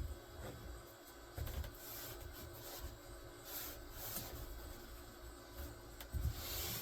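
Faint workshop handling sounds: pieces of wood being shifted and rubbed, with scattered light knocks and brief scrapes.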